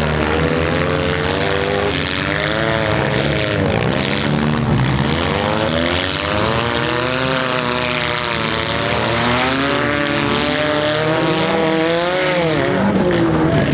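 Four-cylinder demolition derby cars' engines revving, several at once, their pitch rising and falling over and over as the cars drive and push against each other.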